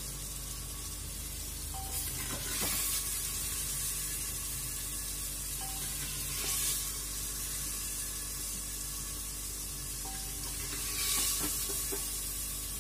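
Paneer cubes sizzling in hot oil in an aluminium pressure cooker. A wooden spatula stirs and scrapes three times as the pieces are lifted out.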